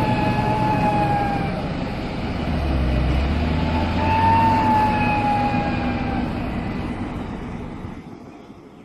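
Heavy truck engine labouring on a steep climb, with a steady high tone heard twice, each time sinking slightly in pitch; the whole sound fades away near the end.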